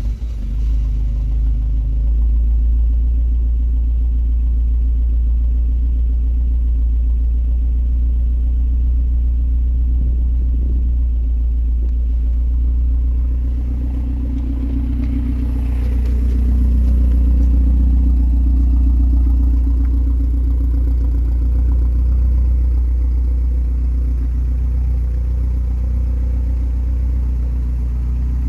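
1986 Toyota pickup's engine idling steadily just after a cold start.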